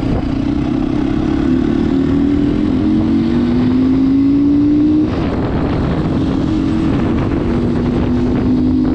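Crossfire HJ 250 motorcycle engine running under way, its pitch climbing slowly for about five seconds, then changing abruptly and holding steady at a slightly lower pitch, with wind rush over the microphone.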